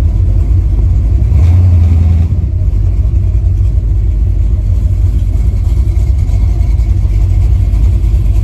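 V8 engine of a Chevy LUV pickup running as the truck is driven, a loud steady low drone with road noise, swelling briefly about a second and a half in.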